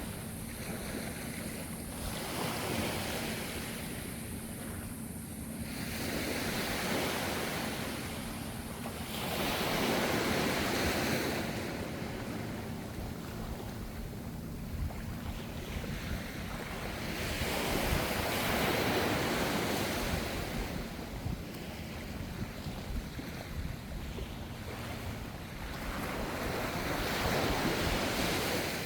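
Gentle ocean waves breaking, the surf swelling and fading every few seconds.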